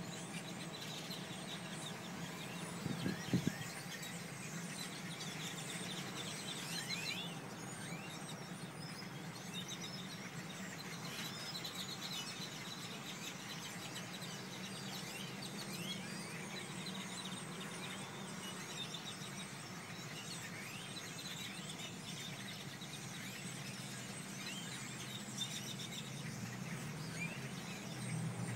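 A large flock of birds calling all at once: dense, overlapping short chirps and squeaks, over a steady low hum, with a brief knock about three seconds in.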